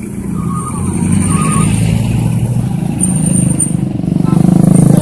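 Motor vehicle engine running close by, growing louder and steadier about four seconds in.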